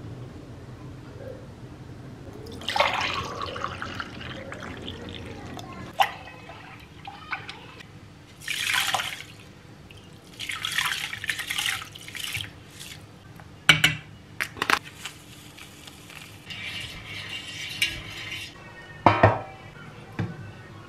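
Water running or being poured in several short spells, with sharp clinks and knocks between them, like dishes or containers handled at a sink.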